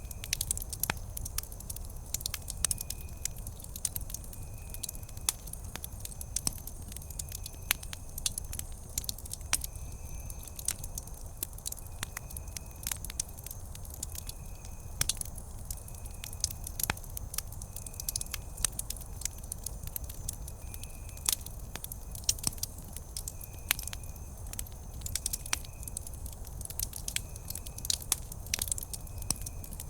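Wood campfire crackling, with irregular sharp pops and snaps over a low steady rumble. A faint high chirp repeats about once a second in the background.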